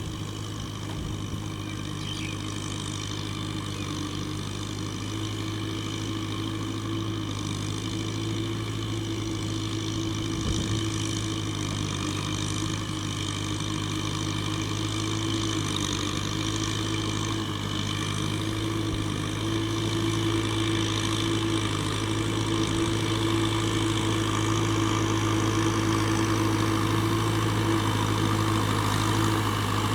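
Kubota M6040SU tractor's diesel engine running steadily, gradually getting louder.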